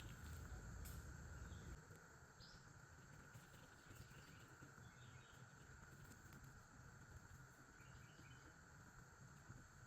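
Faint, steady chorus of insects, with a few soft bird chirps. A low rumble fades out about two seconds in.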